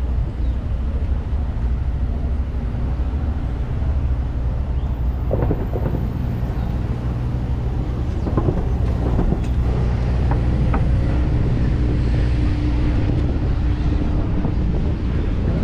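Steady low rumble of wind on the microphone while riding a bike. A few brief rattles come about a third of the way in, and a faint steady hum appears past the middle.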